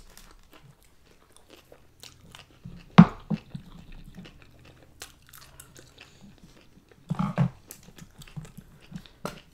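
Close-miked eating sounds: chewing and wet mouth smacks on sushi and poke, with small clicks of chopsticks and a fork against foam takeout containers. A sharp click comes about three seconds in, and a burst of louder chewing sounds about seven seconds in.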